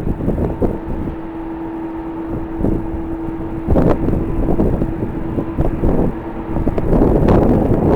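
Strong, gusty wind buffeting the microphone, with a steady hum underneath that fades out near the end as the gusts grow louder.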